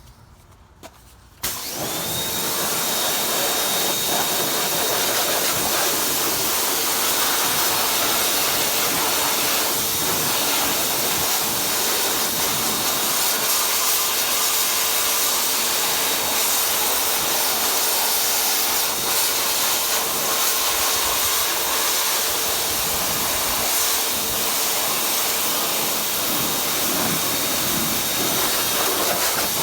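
Pressure washer switching on about a second and a half in, then running steadily: a continuous spray hiss with a steady whine under it.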